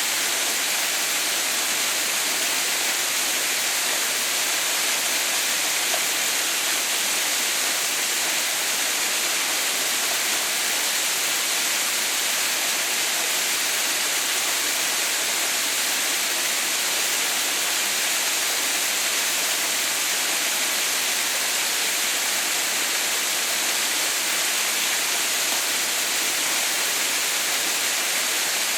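Water pouring down a partly frozen waterfall: a steady, unbroken rush, hissy and bright, with no change from start to end.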